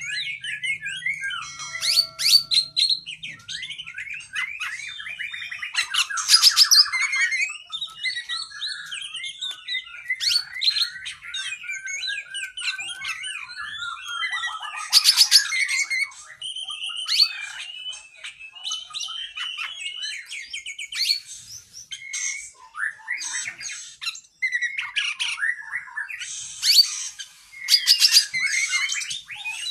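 Oriental magpie-robin (kacer) singing a long, unbroken run of varied whistled and warbled phrases with mimicked calls of other birds worked in, broken by loud rapid chattering bursts about six, fifteen and twenty-seven seconds in.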